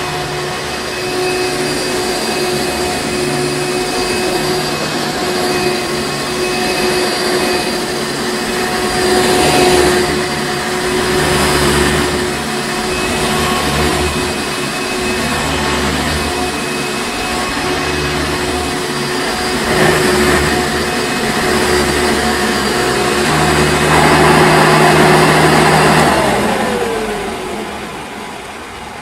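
Hoover Encore Supreme upright vacuum cleaner running steadily with a constant whine. Near the end its pitch falls and the sound dies away as the motor winds down.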